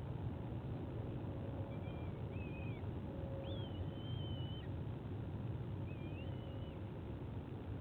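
Thin whistled bird calls: a few short rising and falling notes, then one longer note held level, then another short call, over a steady low rumble.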